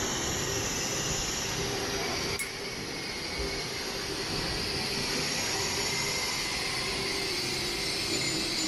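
High-speed electric commuter train running: a steady rushing noise with a strong high hiss and a faint steady hum underneath. There is one faint click about two and a half seconds in.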